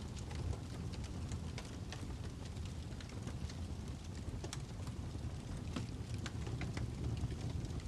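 Fire crackling: a low steady rumble with irregular sharp pops and snaps scattered through it.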